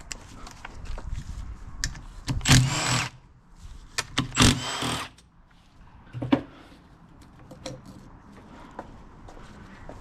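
Handheld power tool running in two short bursts about a second apart, backing out the small 8 mm bolts of an engine's water pump, with light clicks and clinks of metal tools and parts in between.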